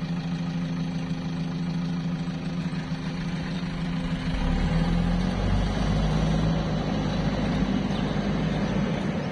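Diesel engine of a heavy farm machine running steadily, its note shifting a little about halfway through.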